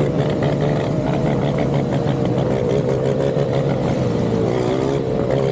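Motorcycle engine running under way, its pitch wavering up and down slightly as the throttle changes.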